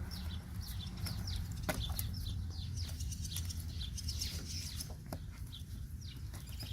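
Small birds chirping over and over in short falling chirps, over a steady low hum, with a couple of faint clicks.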